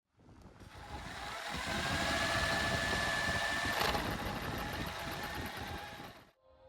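A workshop machine running under power, a steady mechanical noise with a high whine over it; it builds up over the first two seconds and cuts off abruptly near the end.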